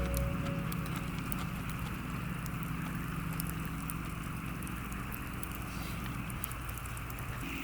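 Wood campfire crackling steadily, with scattered sharp pops and snaps.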